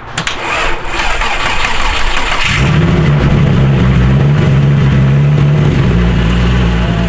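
Volkswagen GTI engine cranked on the starter for about two and a half seconds, then catching and settling into a steady idle. This is its first start after a dog-box transmission and clutch were installed.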